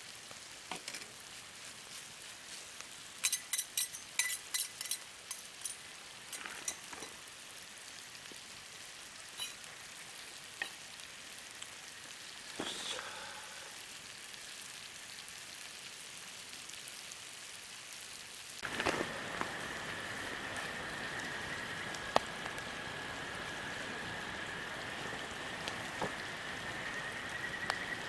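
Food sizzling in a pan, with a run of sharp metal clinks from a utensil a few seconds in. About two-thirds of the way through the sound jumps abruptly to a louder steady hiss with a thin high whine.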